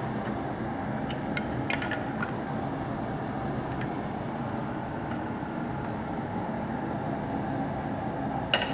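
Steady mechanical running noise, like a motor or machine left running, with a few short clicks about a second or two in and again near the end.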